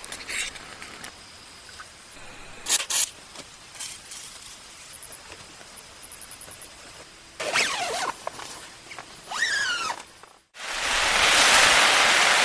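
Scattered small clicks and knocks, with two short sliding sounds in the second half. Then, after a sudden break, the loud, steady hiss of heavy rain pouring down.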